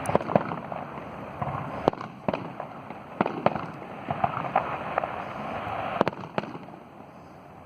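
Fireworks going off at a bonfire-night display: a run of irregular cracks and bangs, some close together in crackling clusters, over a steady background noise.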